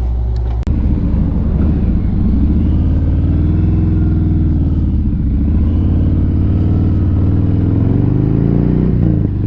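Motorcycle engine idling, then pulling away and accelerating, its pitch rising and dropping a couple of times as it goes up through the gears.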